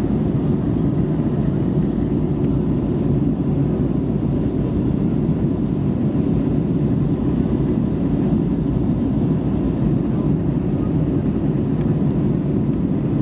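Steady cabin noise of an Airbus A320neo in flight: an even, low rumble of engines and airflow that does not change, with a faint steady tone above it.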